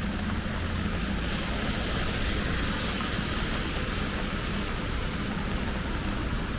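Steady rain falling, with a low, steady rumble underneath. The hiss swells briefly a second or two in.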